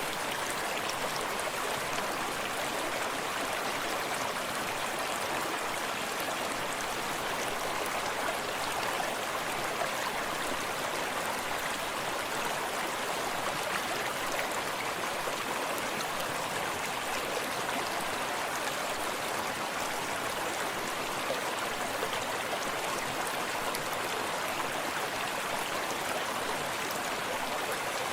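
Forest stream running steadily, with water babbling and splashing over stones and a continuous rushing hiss.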